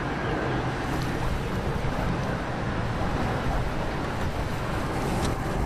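Storm wind buffeting the microphone: a steady, rumbling rush of noise with a couple of faint ticks.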